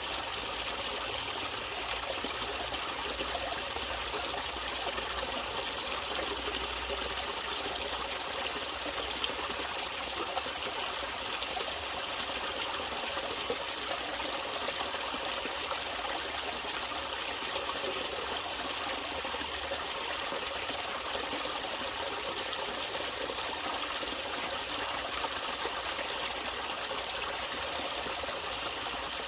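Natural running water trickling steadily, a shallow stream flowing without a break.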